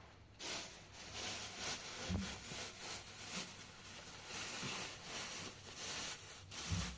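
Repeated rustling and rubbing noises, with a low thump about two seconds in and another near the end.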